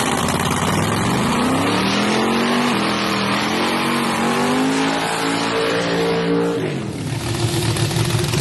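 Drag-racing Chevrolet S10 pickup's engine at full throttle on a pass, climbing in pitch and dropping back at gear changes. Near the end the engine sound drops off suddenly to a lower, rougher running as the throttle is lifted.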